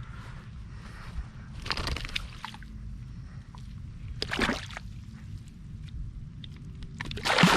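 Water sloshing and splashing in three short bursts, about two seconds apart, over a steady low wind rumble on the microphone.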